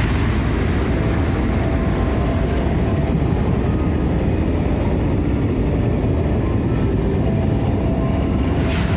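Container freight train hauled by an EF510 electric locomotive running along the track: a steady, loud rumble of wheels on rails, with faint high squealing tones a few seconds in and a sharp click near the end.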